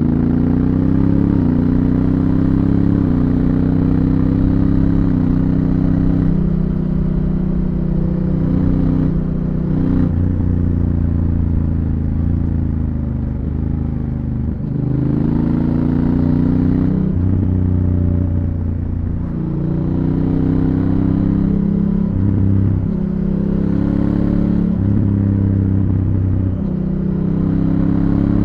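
Honda Africa Twin CRF1000L's parallel-twin engine through its stock exhaust, accelerating repeatedly: the pitch climbs, then drops in quick steps as the DCT automatic gearbox shifts up. It eases off briefly a few times before pulling again.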